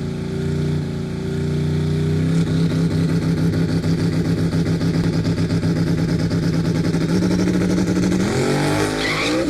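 Car engine running at a steady speed with an evenly pulsing exhaust note, then revving up near the end.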